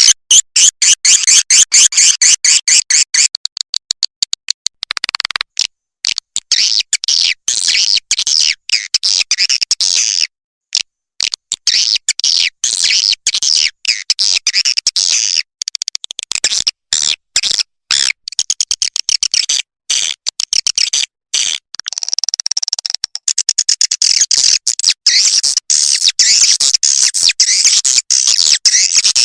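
Recorded swiftlet calls, a rapid high-pitched twittering chatter, played as a lure call to draw swiftlets into a nesting house. The chatter is dense at first, breaks up with many short gaps and a brief silence around ten seconds in, then builds back to a dense twitter in the last few seconds.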